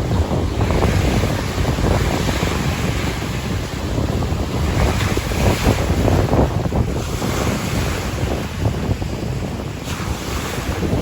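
Strong wind buffeting the microphone with a heavy rumble, over small bay waves washing against the shore. The hiss swells and fades every second or two.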